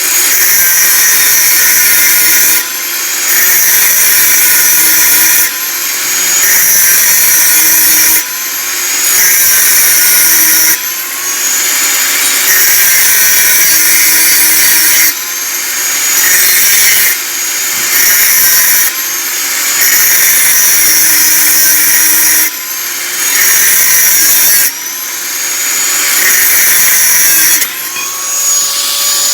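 Lotus 650 W small angle grinder running with no disc fitted, a high motor whine. It is run as a test of whether the grinder is in good condition. Its speed dips and spins back up about ten times.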